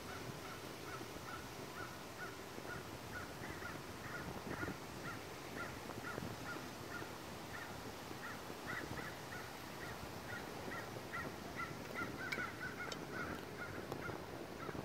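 A bird calling over and over in short, evenly spaced notes, about two a second, over a steady background hiss.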